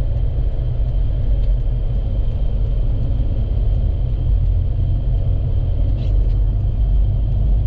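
Steady low rumble of a vehicle driving, heard from inside the cab: engine and road noise, with a faint steady high whine and a couple of faint clicks.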